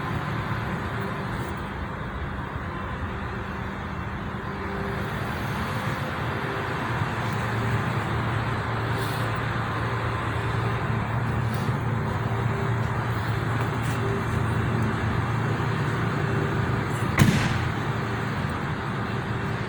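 A car engine running steadily with a low hum, over a noisy background. One sharp knock sounds near the end.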